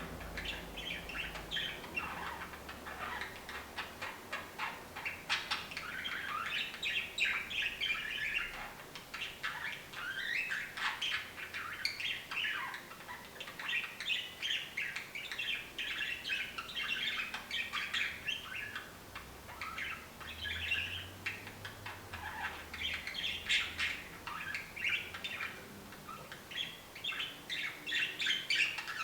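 A budgerigar singing: a long, continuous warbling chatter of rapid chirps and clicks, with only short pauses.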